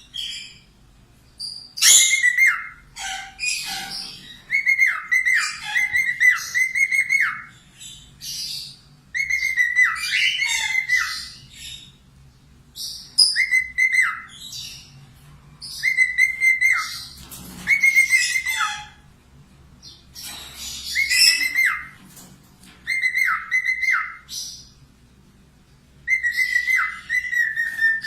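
Budgerigar (Falk type) singing energetically in repeated bursts of chatter, one every two to three seconds, each a run of short repeated whistled notes mixed with high chirps.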